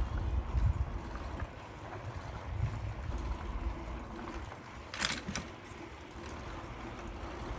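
Riding noise on a bicycle: low gusts of wind buffeting the microphone over a steady low rumble, with a short sharp rattle about five seconds in.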